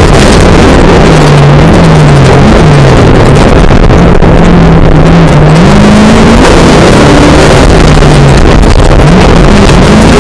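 Folk-race rally car's engine heard from inside the cabin as it is driven through a heat, its pitch rising and falling repeatedly with revs and gear changes. Very loud, with road and tyre noise beneath.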